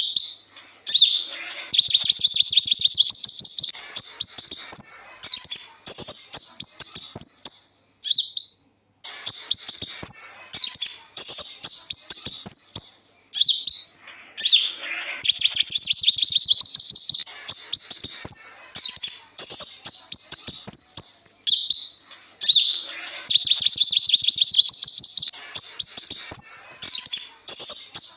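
Kolibri ninja sunbird singing a rapid, high-pitched twittering song with trills and sweeping notes. It comes in phrases of a few seconds with short pauses between them.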